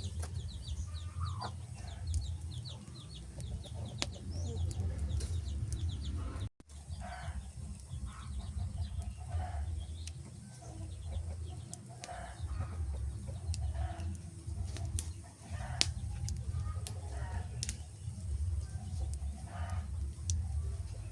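Wood fire crackling, with sharp pops over a steady low rumble. Short animal calls repeat about once a second through most of the stretch, and the sound drops out for a moment about six seconds in.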